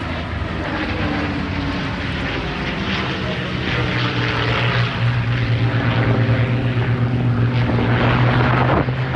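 Airplane engine droning at a steady pitch, growing gradually louder through the stretch.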